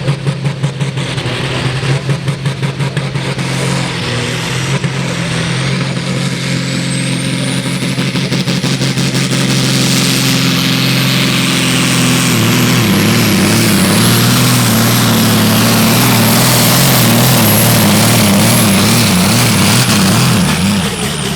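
Pulling tractor's engine revving in short blips, then running hard and loud for about ten seconds, with the engine note wavering under load. A high whine rises and holds over it, and the engine eases off near the end.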